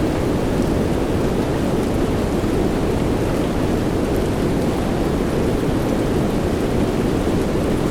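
Steady soft rain: an even, muffled hiss weighted toward the low end, with no distinct drops or claps.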